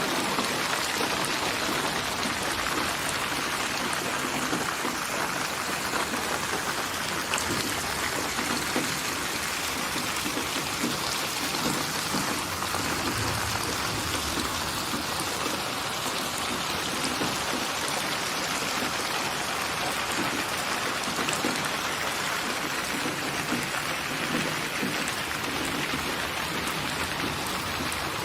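Steady rain falling, a continuous even patter of drops on a surface.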